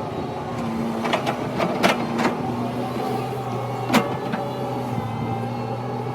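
Excavator's diesel engine running steadily, with a run of sharp knocks from about a second in and one louder knock about four seconds in, typical of the bucket working the ground.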